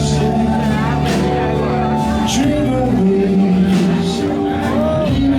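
Blues-rock band playing live: sustained, bending instrument notes over a drum beat, with a cymbal stroke about once a second.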